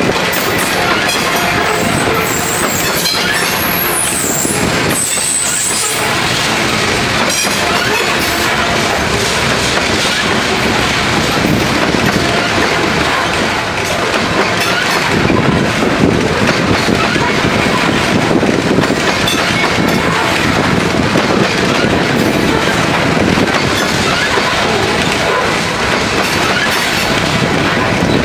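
Loaded coal train's cars rolling past on the rails: a steady loud rumble and clatter of wheels on track, with thin high squeals in the first few seconds.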